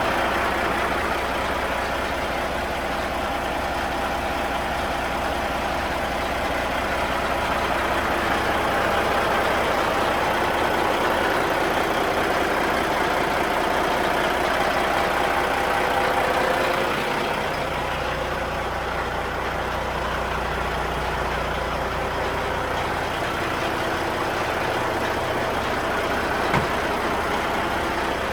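Caterpillar marine diesel engine running steadily at idle during its post-service check, with one short knock near the end.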